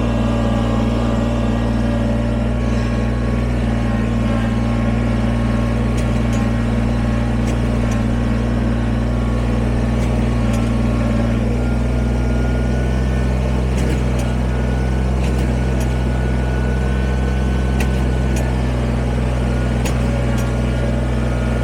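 Kubota BX23S sub-compact tractor's three-cylinder diesel engine running steadily at an even speed, its tone shifting slightly about twelve seconds in.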